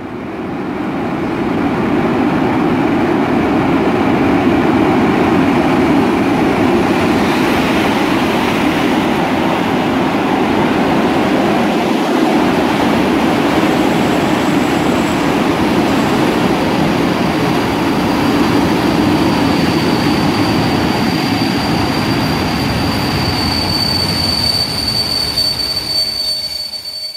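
Passenger carriages of a TLK train rolling past along a station platform: a steady rumble of wheels on rail, with a high wheel squeal that grows stronger in the last few seconds.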